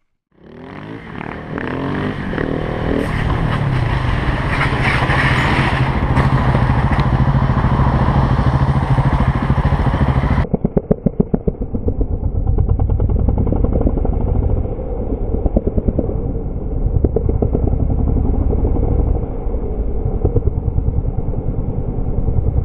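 Motorcycle engine running under way, swelling up over the first couple of seconds and then holding a steady note. About ten seconds in it cuts abruptly to a duller recording of a motorcycle riding, with a fast, regular pulsing.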